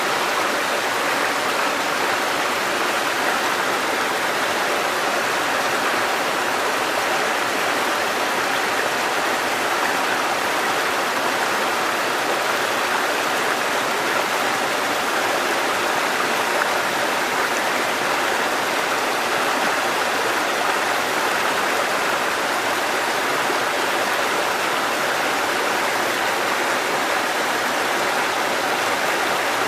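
Mountain stream water cascading over rocks, a steady even rush with no changes.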